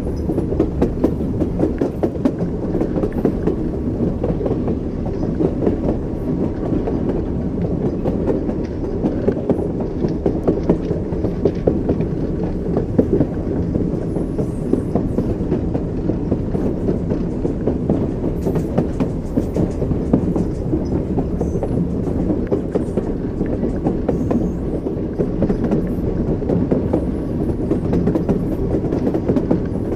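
Train wheels running over rail joints, a steady clickety-clack over a continuous low rumble, as heard riding in a railway carriage.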